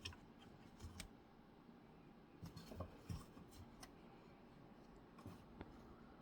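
Near silence, broken by a few faint, scattered taps and rustles, the loudest about a second in and around the three-second mark.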